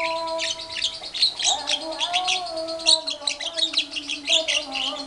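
Lovebird singing its long, rapid 'ngekek' trill alongside a Javan myna chattering: a dense run of fast high chirps over lower drawn-out whistled notes that waver in pitch.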